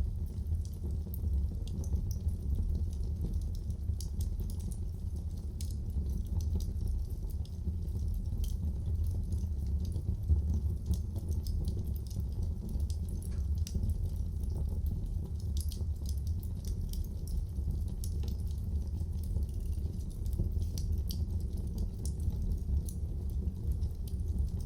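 Fireplace fire crackling: frequent small irregular pops and snaps over a steady low rumble.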